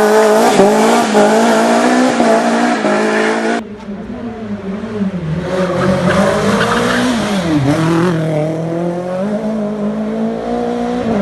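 Renault Clio rally car's four-cylinder engine driven hard, its revs rising and falling through gear changes. About three and a half seconds in the sound cuts abruptly to another passage, where a car's engine is a little quieter and again climbs and dips in revs.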